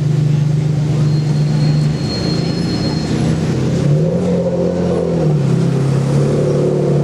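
Ferrari Enzo's V12 running at low revs while the car crawls along, a deep steady note whose pitch rises briefly about four seconds in and then settles back.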